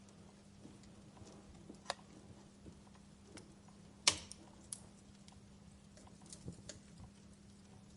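Wood fire crackling in a fireplace: sparse pops and snaps, with the loudest sharp crack about four seconds in.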